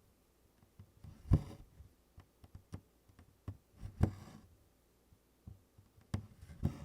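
Close-up sound of tent stitching on 24-count Congress cloth: the needle knocking through the stiff canvas and DMC floss drawn through it in a short rasp. This happens three times, about every two and a half seconds, with small clicks of the needle in between.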